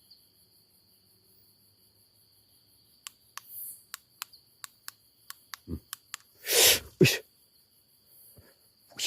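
Night insects, likely crickets, chirring steadily in a high even tone. From about three seconds in comes a string of sharp clicks, then near the two-thirds mark a loud short noisy burst followed by a second, smaller one.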